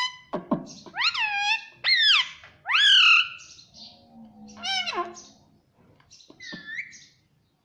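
Pet parrot making a run of high-pitched calls that sweep up and down in pitch. Three strong calls come about one to three seconds in, with shorter, fainter calls near five and six and a half seconds.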